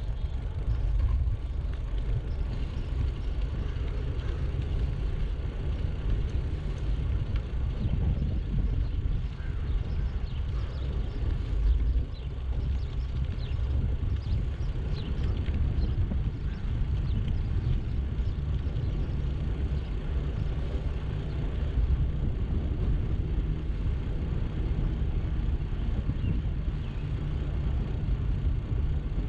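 Steady low rumble of wind buffeting a GoPro's microphone while riding a bicycle, with a fainter rushing of riding noise above it and a few faint ticks.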